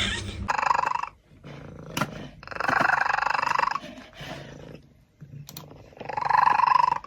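Domestic cat growling and yowling in three drawn-out calls, each with a rapid pulsing rasp, the middle one the longest.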